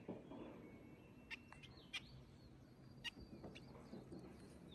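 Faint, short high chirps from small wild birds, four or five spread through the few seconds, over a low background hiss.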